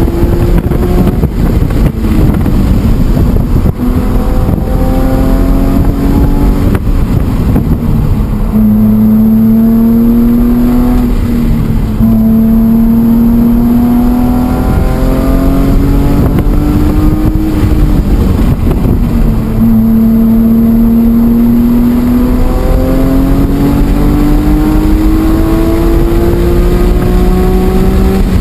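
BMW E46 M3's straight-six engine at full load on track, heard onboard: its pitch climbs in long runs and drops back several times as the car accelerates, shifts and slows for corners.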